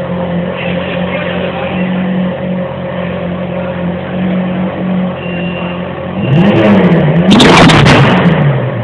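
Ferrari 458 Italia's V8 idling steadily, then revved twice hard about six seconds in, pitch rising and falling each time. Sharp pops and crackles from the exhaust over the second rev: the engine backfiring from being revved too hard.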